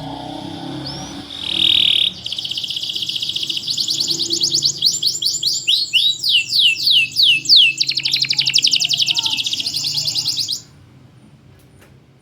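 Domestic canary singing a long, loud phrase of rapid trills with a run of falling whistled notes in the middle, with only short gaps between its song sections; the song stops abruptly near the end.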